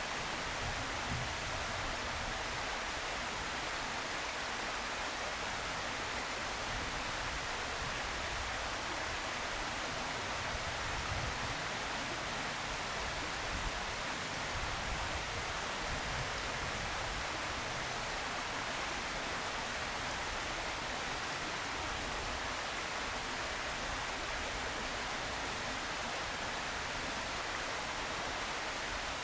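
Steady, even hiss with no distinct calls or knocks.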